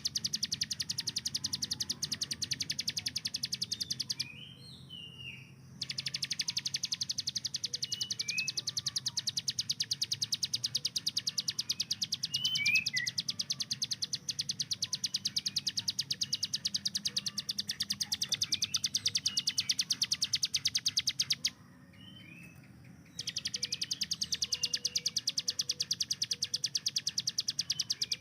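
Ciblek gunung (a prinia) singing its rapid-fire 'tembakan' song: a very fast, machine-gun-like rattle of evenly repeated high notes. The rattle breaks off twice for a second or two.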